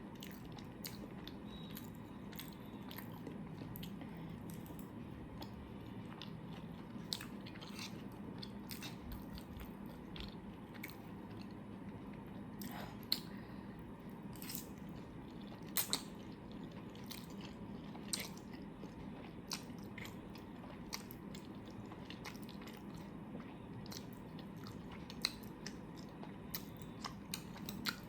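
Close-miked eating: steady chewing with many small wet mouth clicks and a few sharper, louder clicks, over a low, steady room hum.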